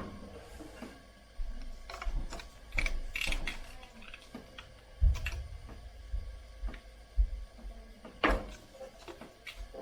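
Irregular clicking and knocking of tools and metal parts being handled, with a sharper knock about eight seconds in.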